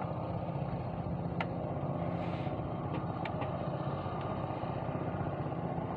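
A small engine running steadily at idle, a low even drone, with a few faint clicks.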